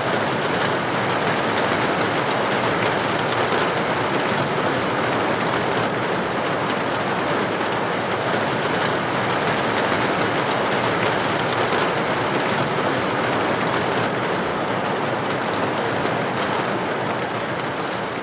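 Steady rain pattering against a window pane, an even dense wash of drops.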